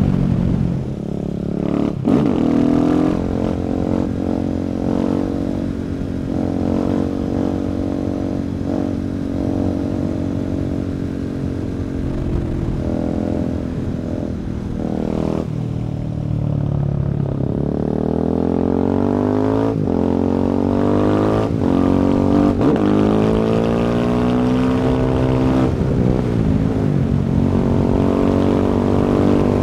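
2017 Husqvarna 701 Supermoto's single-cylinder engine through an Akrapovic exhaust, ridden hard: several rising pulls through the gears, the pitch dropping at each shift or when the throttle closes.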